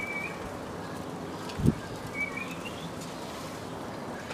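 A small bird chirping, with short calls just at the start and about two seconds in. One dull knock comes between them.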